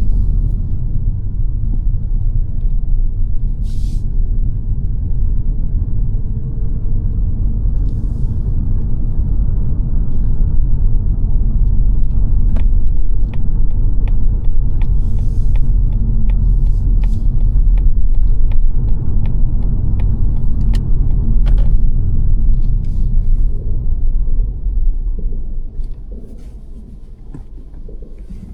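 Interior road noise of a 2022 Mazda 3 saloon on the move: a steady low rumble of tyres and engine. A run of regular light ticks, roughly two a second, comes in the middle. Near the end the rumble drops away sharply as the car slows.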